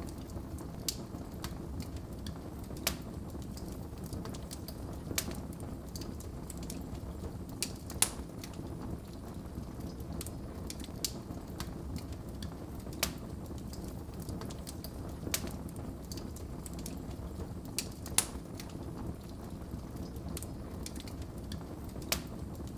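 Wood fire in a fireplace crackling, with irregular sharp pops every few seconds over a low steady rush of flames; the two loudest pops come about a third of the way in and again near the end.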